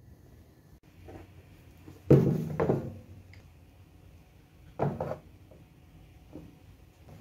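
Hard parts and tools being handled and set down, with clattering knocks: the loudest a little past two seconds in, ringing briefly, and another near five seconds.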